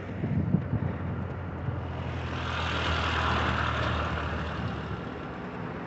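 A motor vehicle passing by: a low steady engine hum, with tyre and engine noise that swells about two seconds in and fades again.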